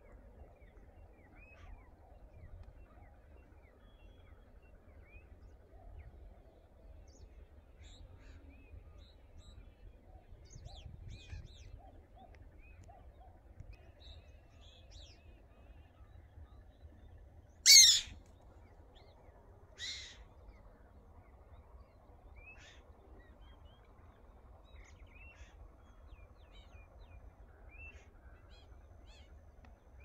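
Bird calls: faint, scattered short chirps throughout, with one loud, harsh call about eighteen seconds in and a weaker one two seconds later, over a low steady rumble.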